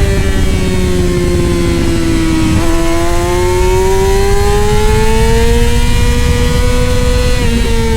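Racing motorcycle engine under way. Its note sinks for about two and a half seconds, then climbs steadily as the bike accelerates and drops a step near the end at a gear change, over a constant rush of wind.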